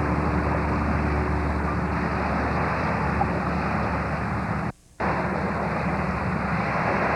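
Steady rushing noise with a low steady hum, broken by a sudden short dropout to near silence just under five seconds in.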